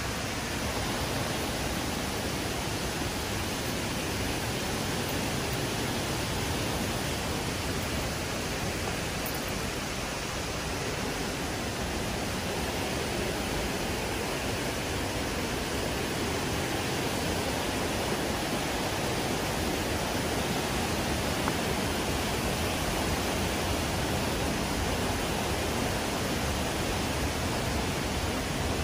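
Steady, even rushing of flowing water, like a waterfall or fast stream, with no change throughout.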